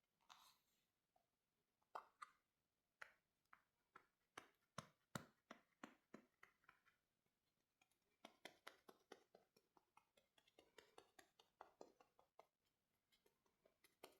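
Faint, quick taps and clicks of makeup products and tools being handled, many of them in irregular clusters.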